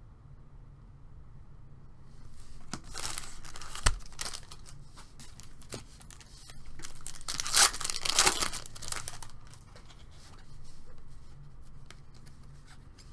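A baseball card pack wrapper being torn open and crinkled, in two spells of ripping and rustling with a sharp snap near the end of the first.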